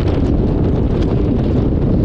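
Steady wind rush buffeting the microphone on a moving motorcycle, with road and engine noise blended underneath.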